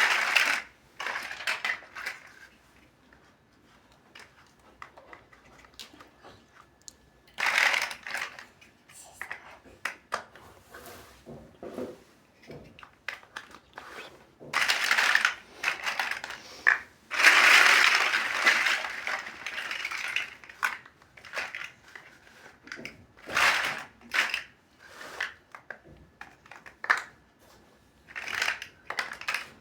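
Plastic building blocks being handled: irregular bursts of crinkling and rustling, the longest about halfway through, among scattered sharp clicks and snaps of plastic pieces.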